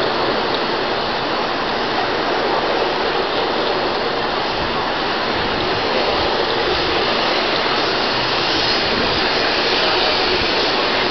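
Taiwan High Speed Rail 700T high-speed train running past along the platform as it pulls into the station: a loud, steady rushing noise.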